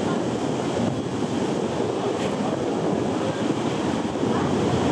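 Steady rushing noise of the Watarase Keikoku Railway trolley train running, heard from its open-sided car, with wind buffeting the microphone.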